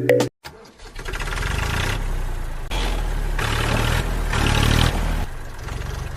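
Small single-cylinder mini diesel engine of a DIY model tractor starting and running with a rapid, even firing beat, its tone shifting a couple of times as the speed changes.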